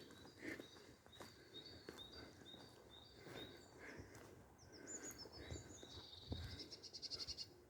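Faint woodland birdsong: one bird repeats a short high note about three times a second, then higher falling notes and a fast rattling trill come in near the end.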